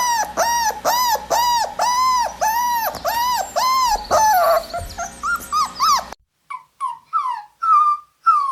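Puppy yelping in a steady series of short, arched, high-pitched cries, about two a second. About six seconds in the background hiss cuts out and the cries turn into short falling whimpers.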